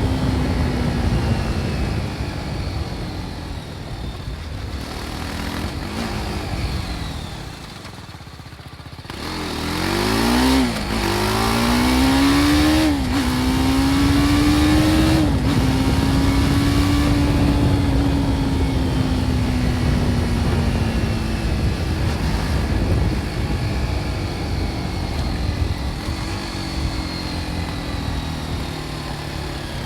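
BMW G310 R's single-cylinder engine with its stock exhaust, ridden on the road: the revs fall off on a closed throttle for the first several seconds and are lowest about eight seconds in. Then it accelerates through three quick upshifts, each a rising pitch that drops sharply at the change, and settles into a steady cruise that slowly eases off, with wind rush throughout.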